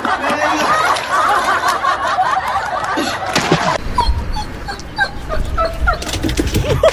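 Dogs whining and yipping in many short, high-pitched calls. About four seconds in, a low rumble comes in under the calls.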